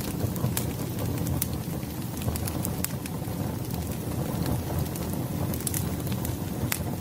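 Wood fire burning: a steady low rush of flames with irregular sharp crackles and pops, roughly one a second.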